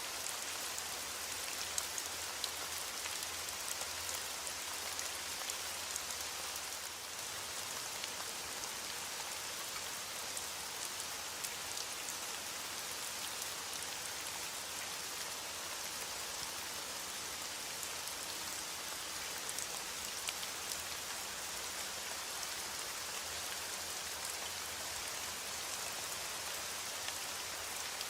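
Steady rain falling: an even hiss of drops with a few sharper individual drop ticks, and no thunder.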